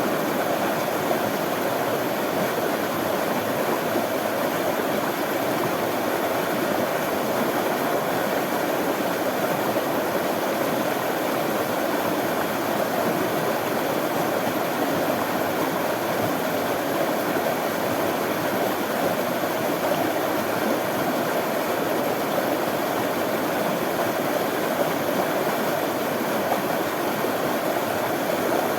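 Running water flowing steadily, a continuous even rush with no breaks or changes.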